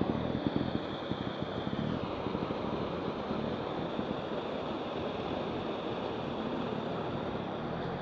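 Waterfall water rushing, a steady, even noise.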